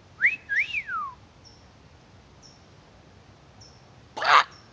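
Bird calls: a whistled note that swoops up and then glides down, twice in quick succession in the first second, then a short harsh call about four seconds in.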